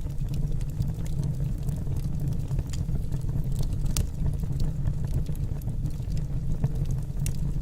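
Wood fire burning in a fireplace: a steady low rumble of the flames with scattered sharp crackles and pops from the burning logs, one clearer pop about four seconds in.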